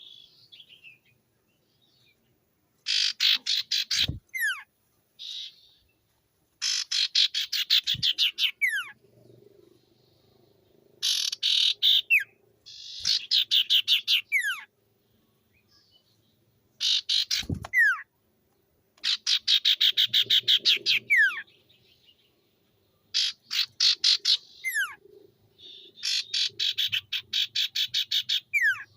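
Common iora (cipoh) singing. It gives repeated bouts of a fast, loud chattering trill, about ten notes a second, each lasting a second or two and ending in a quick falling whistle. A few dull thumps sound underneath.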